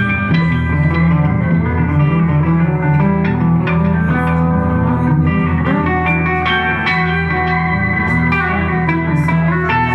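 Live band music led by guitar over a steady bass line.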